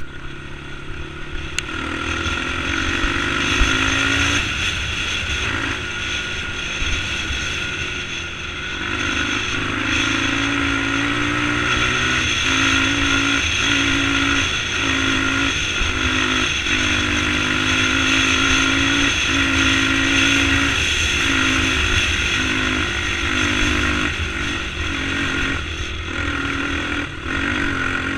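Motorcycle engine running steadily, its note dropping out and coming back many times as the throttle is worked.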